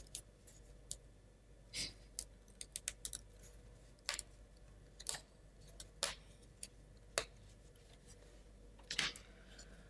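Laser-cut plywood model parts being handled and fitted: scattered light clicks and taps, about a dozen spread irregularly over several seconds.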